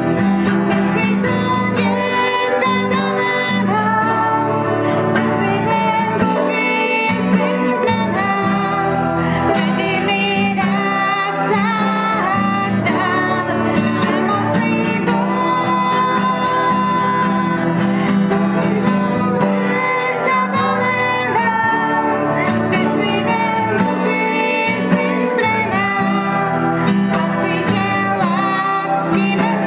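Worship song sung with instrumental accompaniment, at an even level throughout.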